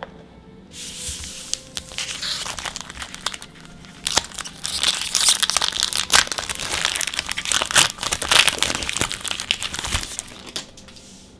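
Magic: The Gathering booster pack wrapper being torn open by hand, crinkling and tearing. It gets louder from about four seconds in and settles near the end.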